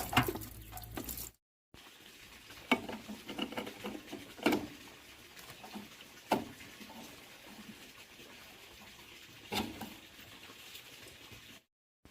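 A handful of light, separate knocks and clicks, typical of hand work on metal parts, spaced a second or more apart over faint background noise.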